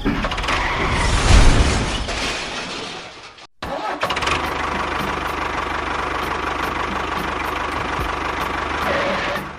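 Mini tractor's motor running. It is loud and uneven for the first couple of seconds, then after a brief break it runs steadily with a fast regular ticking.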